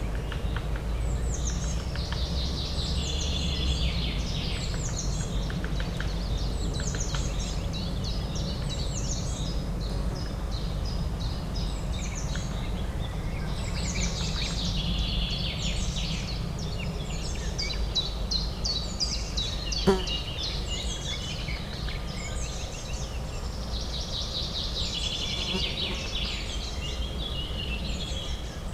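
Several songbirds singing in repeated chirping phrases over a steady low urban hum. A single sharp click about two-thirds of the way through.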